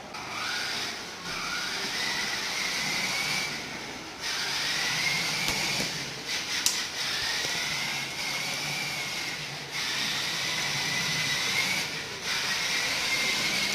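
Electric motor of a child's ride-on motorbike whining in several spurts, its pitch rising and falling as it speeds up and slows, over a steady hiss, with short pauses between runs.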